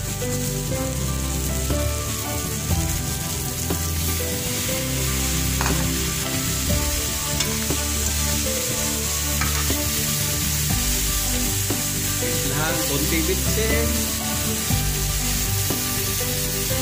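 Chicken pieces and chopped white gourd (upo) sizzling steadily as they fry in oil in a metal pan.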